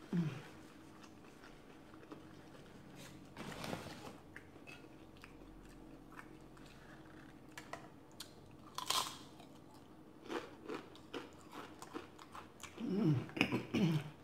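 Close-miked eating sounds: chewing, a few sharp crunches, and wet mouth clicks, with bites into a crunchy tortilla chip near the end. A short hummed "mm" comes at the start and again near the end.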